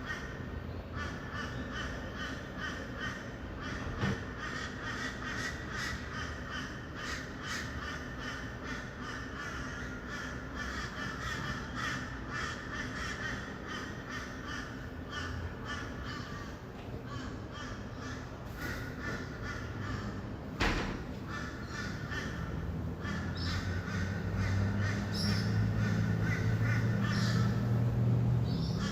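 A flock of rainbow lorikeets chattering and screeching continuously in a dense mass of short, harsh calls. A low traffic rumble swells in the last few seconds, and there is one sharp knock about twenty seconds in.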